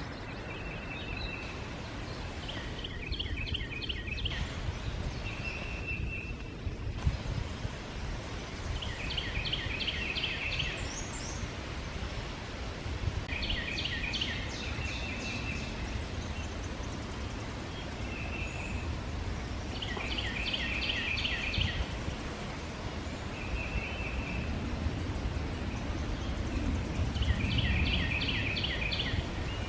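A songbird singing the same loud phrase of rapid repeated notes about every five to six seconds, with short single whistled notes in between, over steady wind noise.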